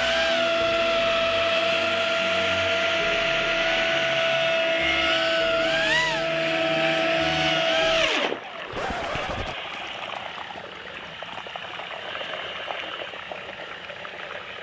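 Brushless-motor ducted fan of a small RC hovercraft whining steadily at high speed, wavering in pitch about six seconds in. Just after eight seconds it winds down with a steep fall in pitch, leaving a quieter, even rushing noise.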